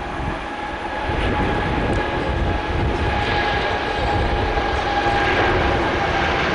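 Jet airliner engines running, a steady whine over a low rumble that grows louder about a second in.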